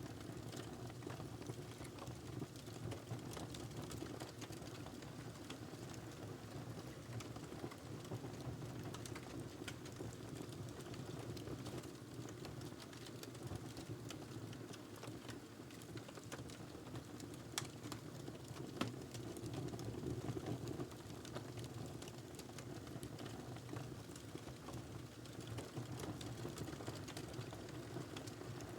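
Wood fire crackling in a fireplace: a steady low rumble of flames with frequent small irregular crackles and snaps, and two sharper pops a little past the middle.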